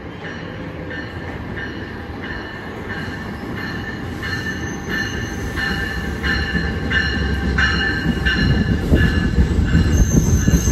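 NJ Transit bilevel commuter train pulling into the station cab car first, its bell ringing steadily at about three strokes every two seconds. The rumble of the wheels grows loud as the cars draw alongside, and a high wheel squeal joins near the end.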